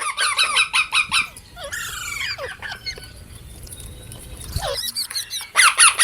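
Green parrots calling in rapid runs of short, shrill repeated notes, about seven a second. The runs fall in the first second or so and again near the end, with softer scattered chirps between.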